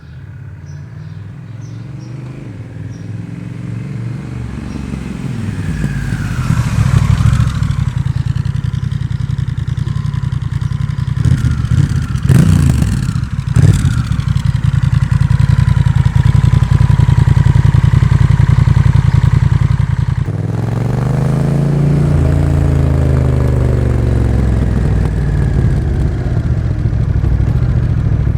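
Honda Rebel 1100's parallel-twin engine through a Miller exhaust with the Racing db-Absorber baffle. It approaches and grows louder over about six seconds, then runs loud close by, with quick throttle revs around the middle. After a sudden cut about two-thirds in, the same engine is heard from the rider's seat, revving up and settling into riding.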